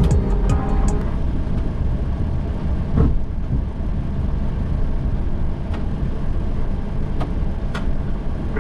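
Steady low rumble of a Boeing 737 flight deck while taxiing: the idling engines and airflow noise, with a few faint clicks.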